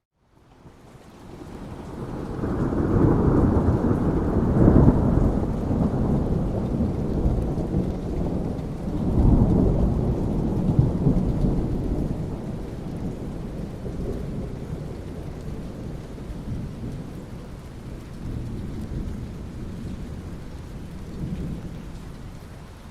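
Rolling thunder over steady rain: a deep rumble swells up in the first few seconds, peaks twice, the second time about nine seconds in, then slowly rolls away while the rain hiss carries on.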